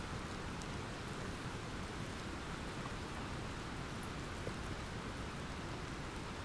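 Steady rain falling from a thunderstorm: an even hiss with a few faint drop ticks and no thunderclap.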